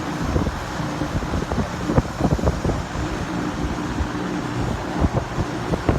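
32-inch belt-driven portable exhaust fan running, a steady rush of air with a low rumble and a faint steady hum, its airflow buffeting the microphone in irregular gusts.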